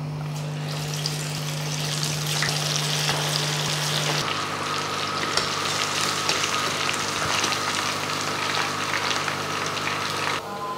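Spiced, gram-flour-coated fish pieces sizzling and crackling as they deep-fry in hot mustard oil. The sizzle builds over the first couple of seconds after the pieces go in, then holds steady, and falls away shortly before the end as they are lifted out.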